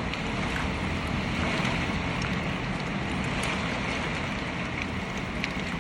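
Heavy rain falling steadily: a dense, even hiss with many separate drop hits ticking through it.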